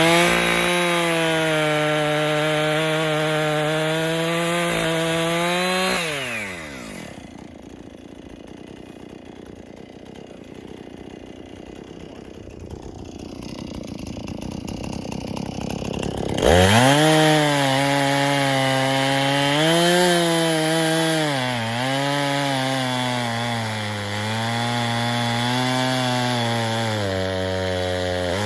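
Two-stroke chainsaw cutting through a big downed tree trunk, running at high revs for about six seconds before the revs drop away. After a quieter stretch it comes back in suddenly and cuts again, its engine pitch wavering and sagging under load near the end.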